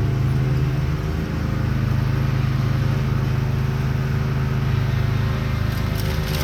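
Craftsman YT4000 lawn tractor's engine running steadily while powering a Bercomac 44-inch front-mounted snowblower, dipping briefly about a second in. Near the end a spatter of sharp clicks and crackles joins it.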